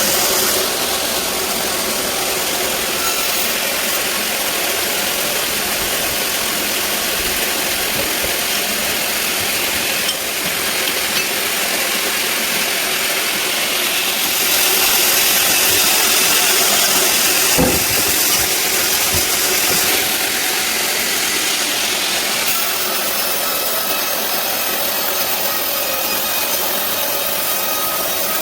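Sawmill bandsaw running and cutting through a teak log, a steady, noisy hiss of blade in wood, somewhat louder for a stretch midway, with a single brief knock about two thirds of the way through.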